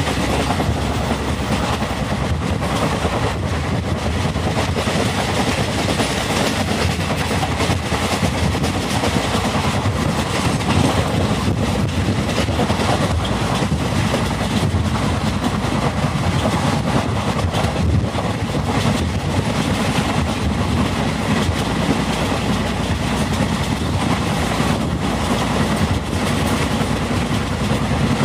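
Malwa Express passenger train running at speed, heard from a coach doorway: a steady, loud rumble of wheels on rail with a rushing noise and an irregular clickety-clack of rail joints.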